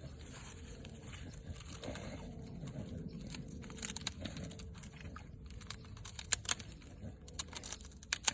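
Dog chewing on a stick or branch, with a run of sharp cracks and crunches that come thicker and louder in the second half.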